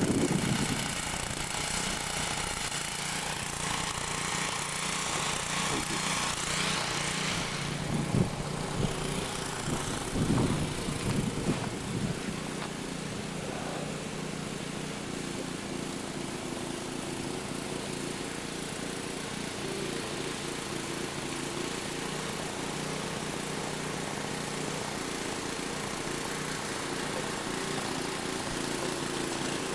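An engine running steadily, with a few louder swells around eight to twelve seconds in.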